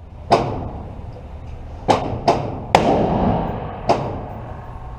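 Five gunshots from 9mm pistol fire at a shooting range, each a sharp crack with a ringing echo tail. One comes shortly after the start, three are close together around the middle, and one falls near the end.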